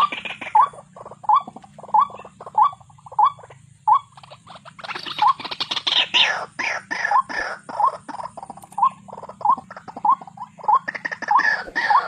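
White-breasted waterhen calling: a short rising note repeated about one and a half times a second. From about five seconds in, and again near the end, a dense run of harsh notes falling in pitch joins it.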